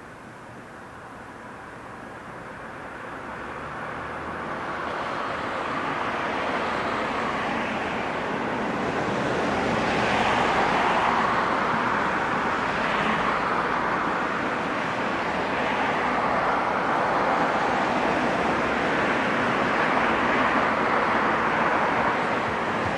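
Vehicle engine noise that grows louder over about six seconds, then stays loud and steady with slight swells.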